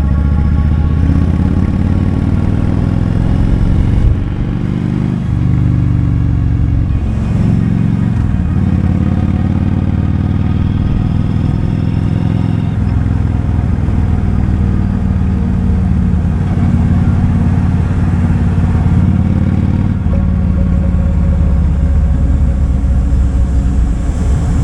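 Kawasaki Vulcan 2000's big 2,053 cc V-twin engine running as the motorcycle rides, steady for most of the time, with the revs easing off and picking back up a couple of times in the first third.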